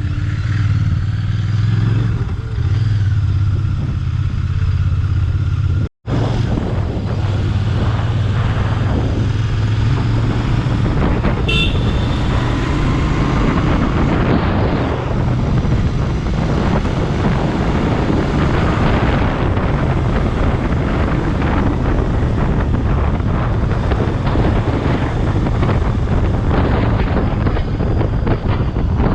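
Royal Enfield Bear 650's 648 cc parallel-twin engine running on the move, with heavy wind noise on the camera microphone. A horn sounds briefly about eleven seconds in, and the audio cuts out for an instant around six seconds in.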